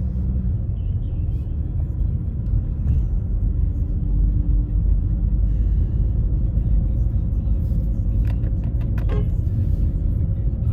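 Car heard from inside the cabin, a steady low rumble of engine and tyres as it climbs a snow-covered hill under load. A few sharp clicks about eight to nine seconds in.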